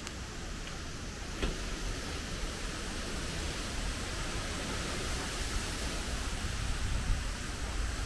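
Steady rush of typhoon wind and rain, with gusts buffeting the microphone in a fluctuating low rumble. A single short click about a second and a half in.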